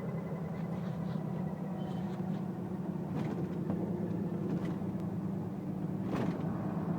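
A steady low mechanical hum, like a running engine, with a few faint short clicks and chirps over it.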